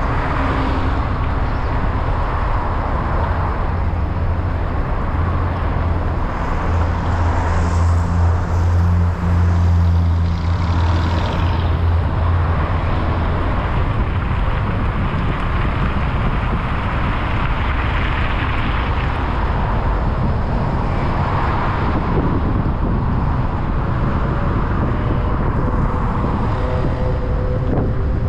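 Road traffic on a bridge: cars and trucks passing steadily, with a deep engine drone that swells about six seconds in and fades near twelve seconds, then more vehicles passing in waves.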